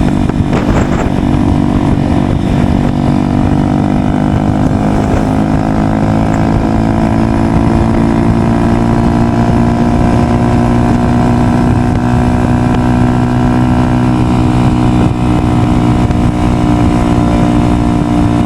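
Honda SP 125's single-cylinder engine running loud through an aftermarket SC Project exhaust, holding a steady engine speed.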